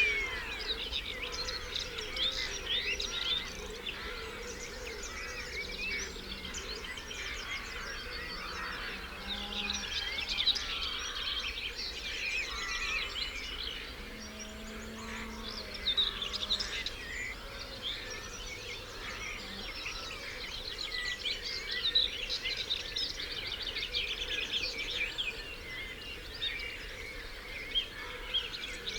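Dawn chorus: many songbirds singing at once in dense, overlapping trills and warbles, with a few short low calls here and there.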